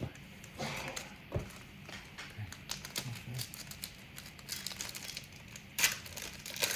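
Trading cards and their foil pack wrapper being handled close to the microphone: irregular rustling, crinkling and card clicks as the cards are flipped through, with one louder crinkle about six seconds in.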